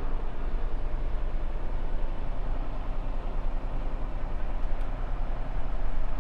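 Semi truck's diesel engine running with a steady low rumble, heard from inside the cab as the truck drives.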